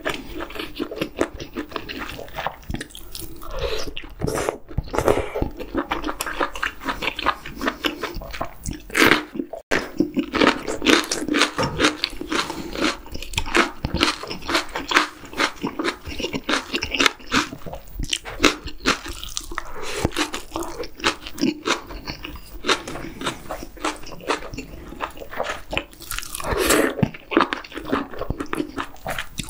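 Close-miked eating sounds: rapid wet chewing and smacking of octopus and chewy jjolmyeon noodles from a spicy hot pot. Short noisy slurps come through here and there, one near the end.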